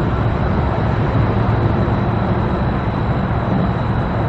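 Steady low rumble of vehicle noise, with no breaks or distinct events.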